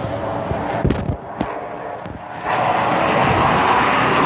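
Jet aircraft noise that grows suddenly louder about two and a half seconds in and stays loud, as a jet passes over. A couple of short knocks come about a second in.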